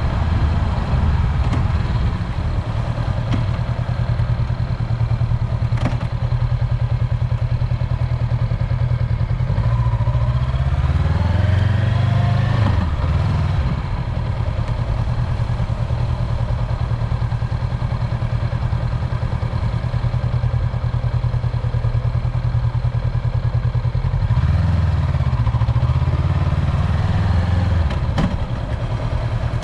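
Honda 400X motorcycle's parallel-twin engine running steadily while riding, heard on board. The engine note rises about ten seconds in as the bike accelerates, and changes again near the end. There are a couple of faint knocks along the way.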